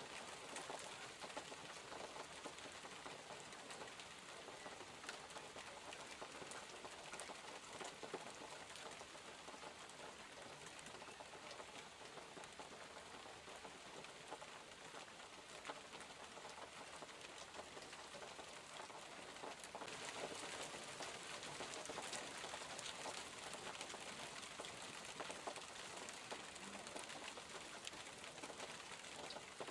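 Steady rain falling, with many small drops pattering. The rain gets a little louder about two-thirds of the way through.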